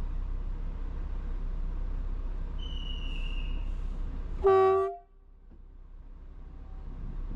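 A short, loud single-pitched train horn blast about half a second long, some four and a half seconds in, over a steady low background rumble. A faint high whistle sounds a second or so before it, and just after the blast the background noise drops away and slowly creeps back.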